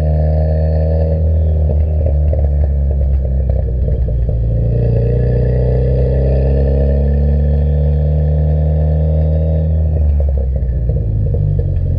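Ford Fiesta ST's engine running through an MBRP 3-inch aftermarket exhaust, a deep, steady exhaust note that shifts pitch slightly a few times.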